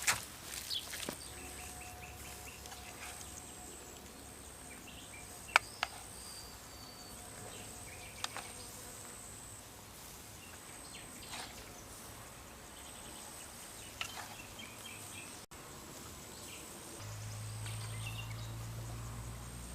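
Quiet outdoor ambience with a few sharp clicks or knocks and faint short high chirps. A low steady hum comes in after a cut near the end.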